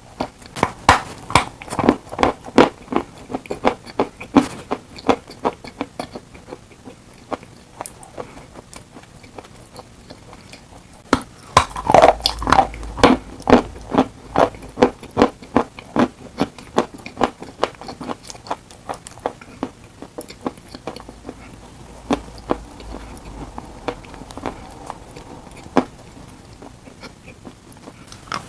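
Dry chalk being chewed close to the microphone: a long run of sharp, crisp crunches, about two a second, loudest for a few seconds near the middle.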